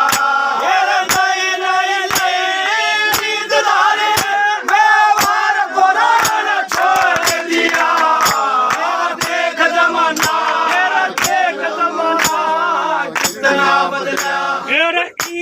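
Haryanvi ragni music: a male voice singing long held, wavering notes with instrumental accompaniment over a steady drum beat.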